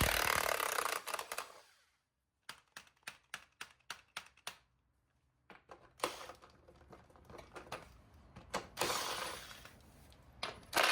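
Power impact wrench hammering on a tractor wheel nut for about a second and a half, then a string of light metallic clicks and taps. A second, quieter burst of hammering comes about nine seconds in.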